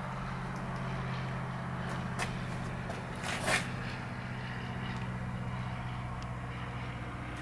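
The VW LT 35's 2.8 TDI diesel engine idling steadily, with a short click about two seconds in and a brief rustle or clunk a little over three seconds in.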